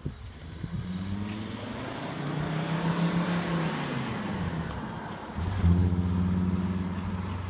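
Volvo V70 D5 2.4-litre five-cylinder turbodiesel running through a stainless steel, almost straight-through turbo-back exhaust with only a centre silencer. The engine note rises, holds, then drops in pitch around four seconds in; about five and a half seconds in it gets suddenly louder and holds a steady low note.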